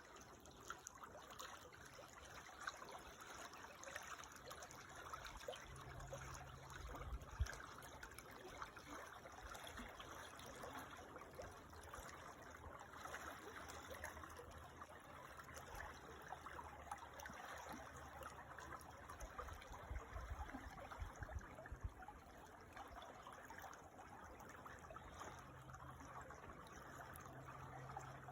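Creek water trickling and running over stones, a steady, faint babble, with a few brief low rumbles now and then.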